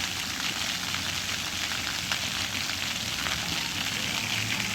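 Steady rain falling, a dense hiss with many small drops ticking close by.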